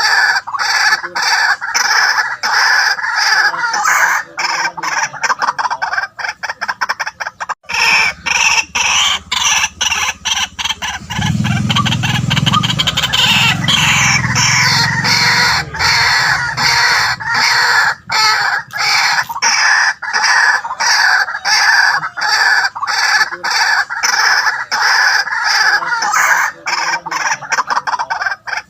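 White-breasted waterhen calling without pause, a rapid run of repeated notes.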